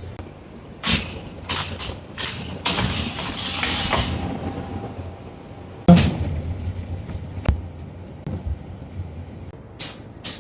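Scattered knocks and clicks with a stretch of rustling in the first half, over a steady low hum; the loudest knock comes about six seconds in.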